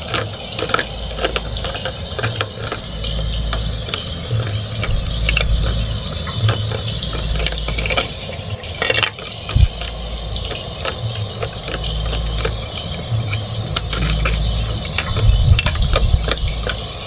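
Plastic spatula clicking and scraping against plastic toy food and a toy frying pan, over a steady sizzling hiss.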